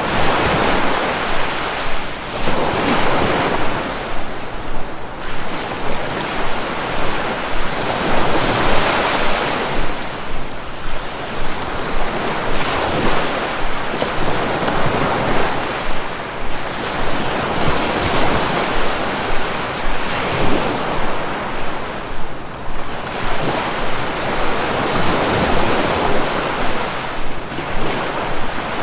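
Sea waves breaking and washing ashore, one surge after another every few seconds, with wind on the microphone.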